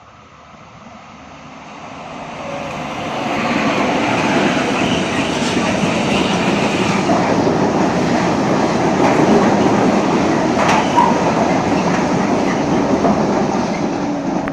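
Renfe train passing on the track: the rumble builds over the first three or four seconds, stays loud as the train runs past with a few sharp clicks, and starts to fade at the very end.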